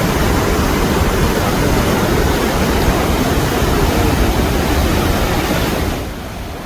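Steady, loud roar of a powerful waterfall, a dense rush of noise with no distinct events, dropping in level about six seconds in.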